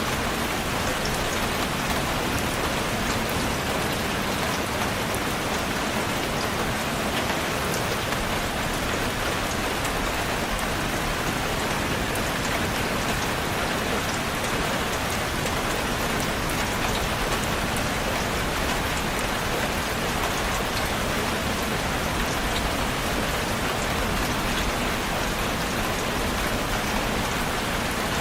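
Steady rain falling, a dense even hiss of countless drops hitting a surface, with no thunder.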